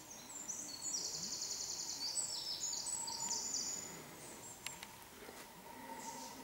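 A small songbird's rapid, high trilling song, several trills stepping between pitches, for the first four seconds or so. Later come a few light, sharp taps.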